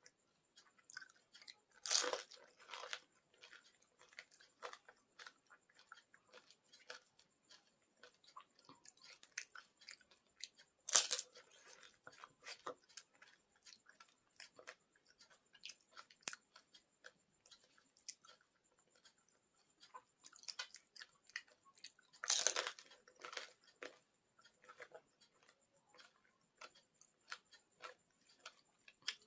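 Close-miked eating of panipuri: three loud crunches as the crisp hollow puri shells are bitten, roughly nine to ten seconds apart, each followed by small wet chewing clicks.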